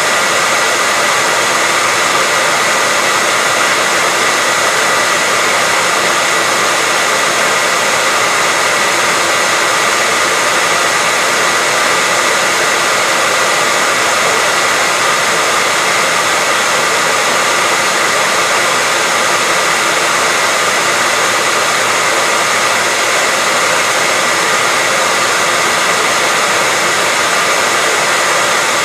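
Electric hair dryer running steadily, a continuous airy rush with a faint steady whine in it, unchanging throughout.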